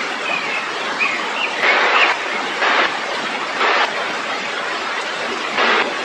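Steady rushing noise that swells briefly about once a second, with a few short, high bird chirps over it in the first two seconds.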